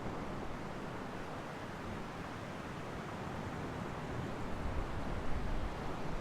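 Ocean surf washing onto the shore: a steady rush of breaking waves, swelling a little in the second half, with low wind rumble on the microphone.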